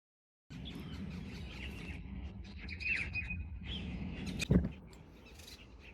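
Small birds chirping and tweeting over a steady low rumble, with a sharp thump about four and a half seconds in.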